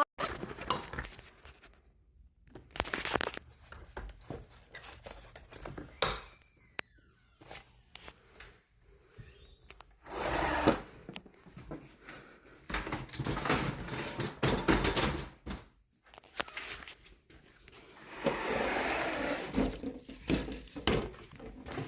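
Handling noise from mounting window-blind hardware: scattered clicks and knocks with several short rustling, scraping bursts, and no steady motor tone.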